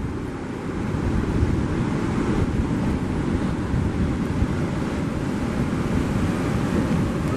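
Wind buffeting the microphone over the steady wash of surf, a dense low rumble that grows a little louder about a second in.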